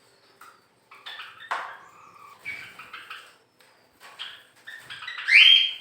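Caged birds chirping: a string of short, separate calls that grow louder near the end, with one strong rising call.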